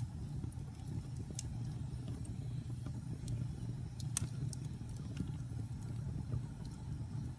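Fire burning in a fireplace: a steady low roar with scattered sharp crackles and pops, the loudest pop about four seconds in.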